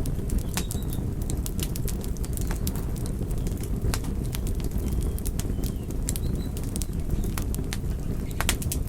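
Wood fire burning, with a steady low rumble of flames under frequent sharp crackles and pops of burning wood.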